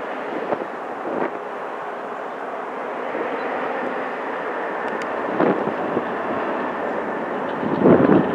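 Roller coaster train running along its track during test cycles, a steady noisy rush that swells twice, most loudly near the end.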